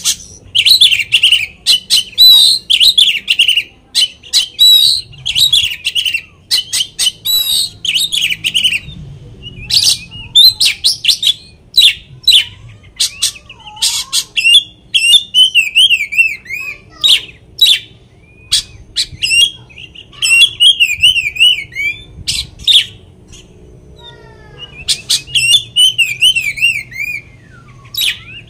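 Oriental magpie-robin (kacer) singing loudly in a fast stream of sharp chips and harsh notes. In the second half come several wavering, zigzag warbled trills, the kind of mimicked 'material' phrases a kacer is kept for.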